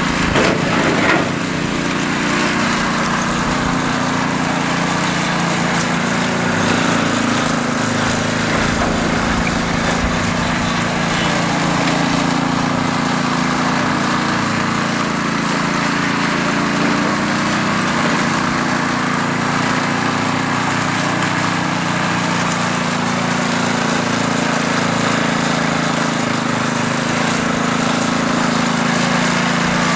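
Small engine of a power trowel running steadily as the machine smooths fresh concrete, with a few brief knocks about a second in.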